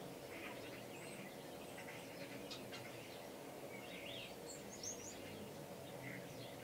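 Faint outdoor ambience: small birds give short, scattered high chirps over a steady low background noise. The brightest chirps come a little after four seconds in and near five seconds.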